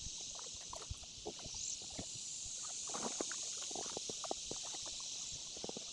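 Canoe on the river: a steady hiss of moving water with scattered small splashes and knocks from the paddles and hull.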